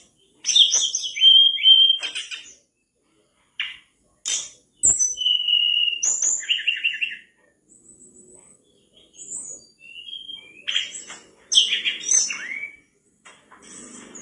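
Mangrove blue flycatcher singing hard: a varied song of clear whistled notes, sliding whistles and quick chirps, given in separate bursts of a second or two with short pauses between.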